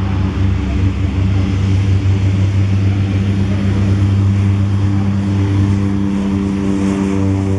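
Single-engine turboprop aircraft running with a steady, loud propeller drone: a low hum with an even stack of overtones over a hiss.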